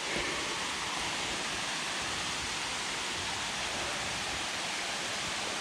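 Steady rush of a jungle waterfall's falling water, an even hiss without pauses or changes.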